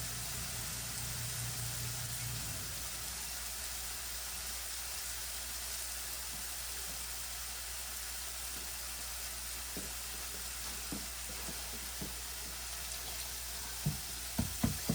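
Breakfast sausage sizzling steadily in a frying pan, with a few light knocks, then a quick run of sharp spatula taps against the pan near the end as the sausage starts to be broken up and browned.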